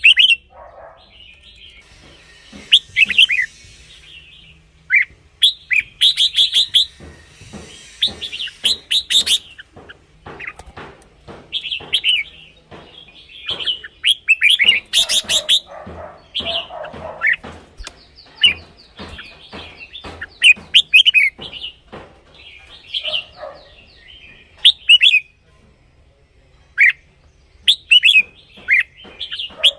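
Red-whiskered bulbul singing: repeated bursts of quick, bright whistled phrases with short pauses between, mixed with many sharp clicks.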